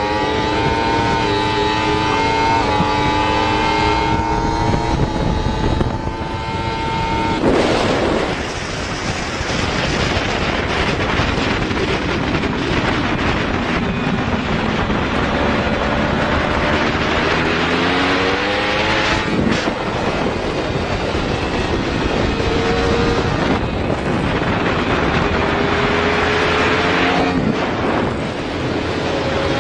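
Motorcycle engine pulling hard through the gears: the pitch climbs, then drops at each shift, with heavy wind noise on the microphone. Later the engine pitch rises again, and there is a short sharp crack about two-thirds of the way in.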